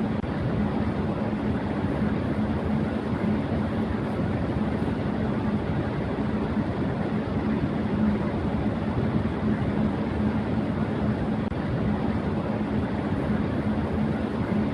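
Electric fan running at high speed: a steady airy whoosh with a constant low hum.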